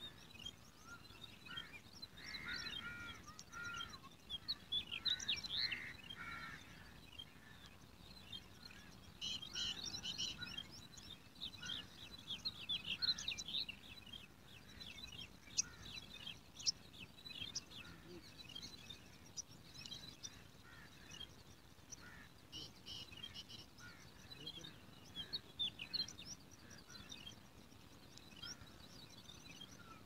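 Small birds chirping in irregular bursts of quick, high, thin chirps, with quieter gaps between, over a faint background hiss.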